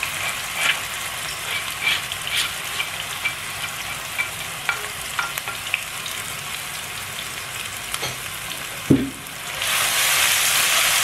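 Freshly ground spice paste of shallot, garlic, ginger, candlenut and turmeric sizzling and crackling in hot oil in a nonstick frying pan. A single knock comes about nine seconds in, then the sizzle grows louder and fuller as a spatula spreads the paste across the pan.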